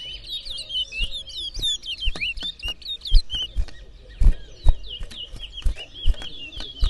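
Caged twa-twa (large-billed seed finches) singing in competition: a continuous run of rapid chirps and quick whistled slides, the birds singing against each other. Sharp low thumps are scattered through it, the loudest a little past three seconds and twice more between four and five seconds in.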